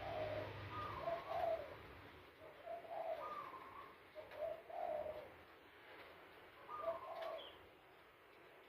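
A bird calling in about five short, low, slurred phrases spaced a second or so apart, growing fainter near the end.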